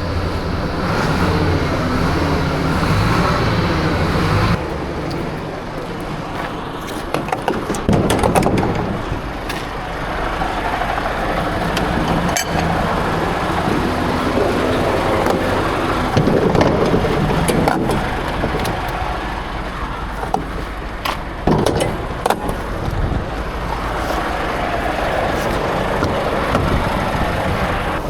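Heavy truck running steadily, with scattered clicks and knocks over it; the sound changes character about four and a half seconds in.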